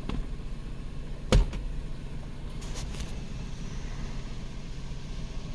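Chrysler Sebring's 2.7-litre V6 idling steadily while a cam/crank position relearn runs. There is a single sharp click about a second and a half in.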